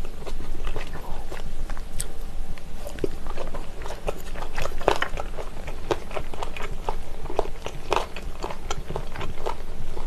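Chewing a slice of pressed spicy chicken-feet meat (dakbal pyeonyuk), with many small irregular crunches and clicks from bits of cartilage.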